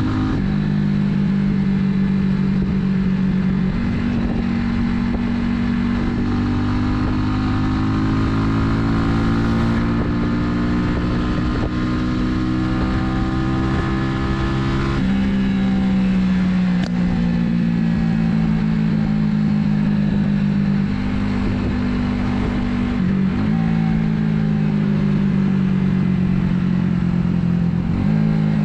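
Italika 250Z motorcycle engine running under way. Its pitch climbs slowly for several seconds, then drops sharply about halfway through, as on a gear change, and shifts again a few times later.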